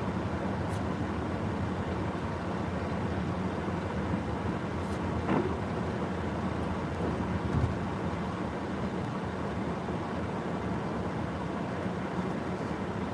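A car driving, with a steady engine and road rumble and no speech. There are two brief knocks, one about five seconds in and one about seven and a half seconds in.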